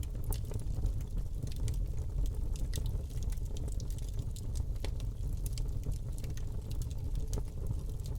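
Wood fire crackling in a fireplace: irregular sharp pops and snaps scattered over a steady low rumble of the flames.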